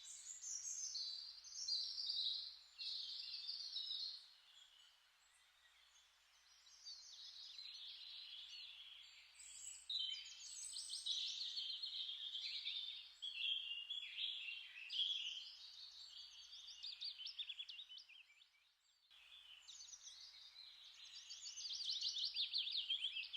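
Songbirds singing, several quick, trilling songs overlapping, with a short quieter spell about five seconds in and a sudden break about eighteen seconds in before the singing resumes.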